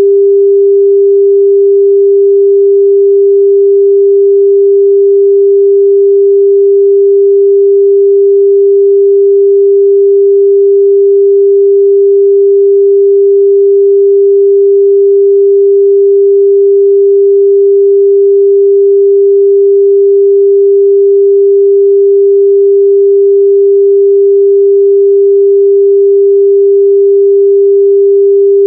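A steady, loud 398 Hz sine-wave test tone, one pure unchanging pitch with no overtones.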